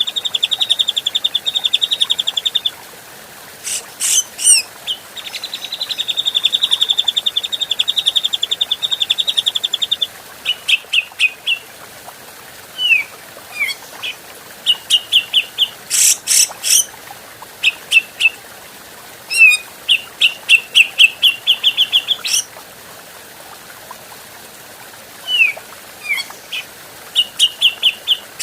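Grey-cheeked bulbul (cucak jenggot) calling. It gives two long, rapid trills in the first ten seconds, then sharp high notes, runs of short repeated notes and a few short downward-slurred whistles.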